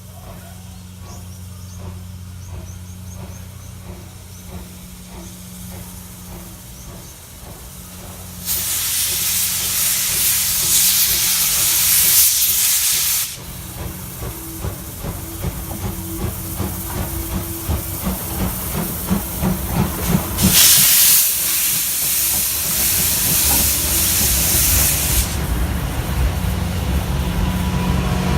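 A steam locomotive venting steam in two loud hissing blasts, each about five seconds long, one about eight seconds in and one about twenty seconds in, over a low steady rumble.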